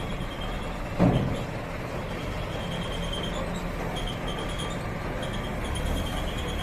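Vehicle engine running steadily, with a single heavy thump about a second in.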